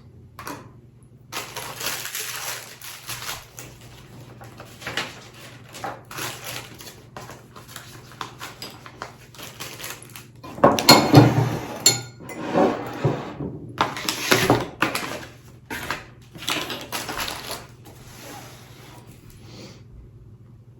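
Dry spice-mix ingredients such as seeds being scooped with a tablespoon and poured into a container in a series of rustling pours, with clinks of the spoon. The longest, loudest pours come about halfway through and again a few seconds later.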